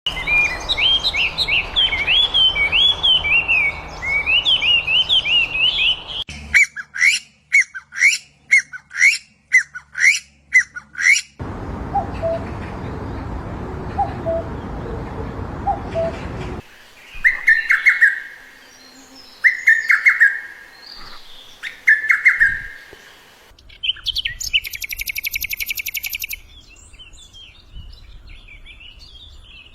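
A string of different songbirds singing one after another, cut together in short segments: each few seconds a new bird with its own song, from rapid warbling phrases to repeated sharp chirps and short trilled whistles.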